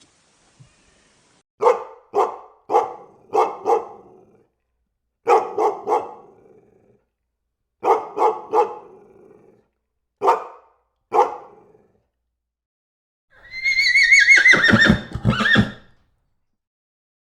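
A dog barking in short groups of three or four barks, about a dozen in all. Near the end a horse gives one long, quavering whinny.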